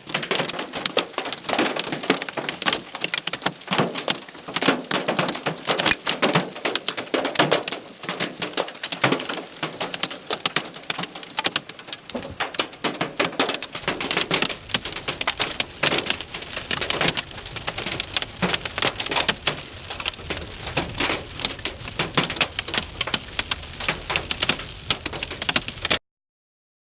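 Hailstones pelting down in a dense, continuous clatter of hard, rapid impacts on a hard surface during a severe hailstorm. It cuts off suddenly near the end.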